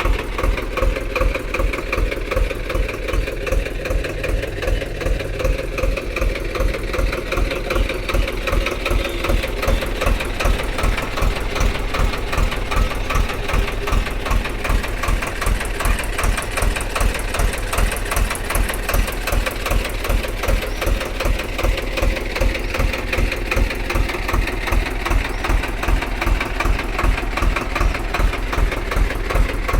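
Mini tractor engine running steadily at idle, with a regular pulsing beat about twice a second.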